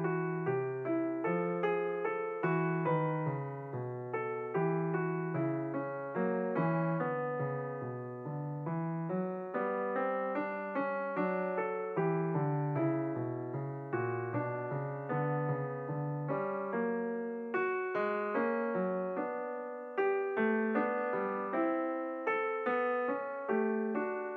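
Background piano music: a steady run of struck notes with chords in the low register.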